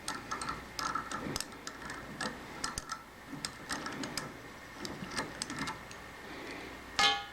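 Light metal clicks and ticks, irregular and scattered, from small hand tools and steel parts being handled, with a brief louder sound near the end.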